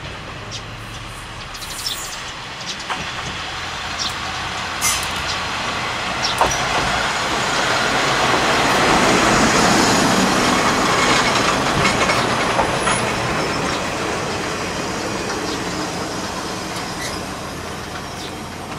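Kominato Railway diesel railcar approaching, running past close by and moving away, its engine and wheels on the rails building to their loudest about halfway through and then fading.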